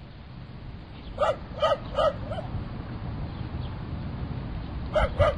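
A dog barking in short, sharp yaps: four quick barks about a second in, the last one fainter, then two more near the end.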